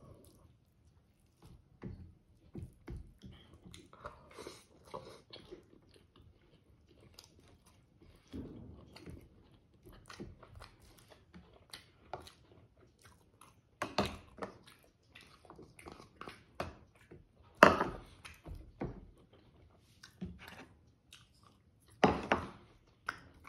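Close-miked chewing and biting of boiled pork, innards and rice, with wet mouth sounds at an irregular pace and several louder ones in the second half.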